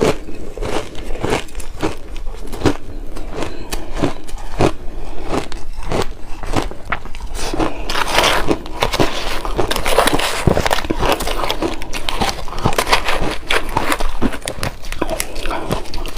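Buckwheat shaved ice being chewed: a quick, uneven run of crisp crunches and crackles, at its densest about eight to eleven seconds in.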